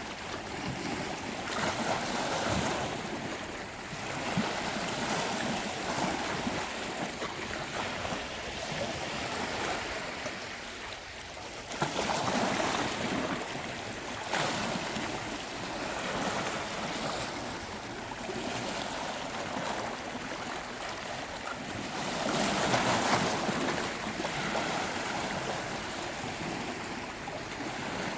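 Sea waves breaking and washing on a beach, a continuous rushing surf that swells with a louder break every few seconds, the strongest near the middle and again a few seconds before the end.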